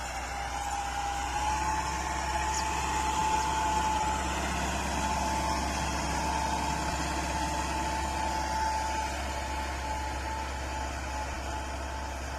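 Bull Power 577 tractor engine running steadily, with a steady whine over it that rises slightly in pitch over the first two seconds.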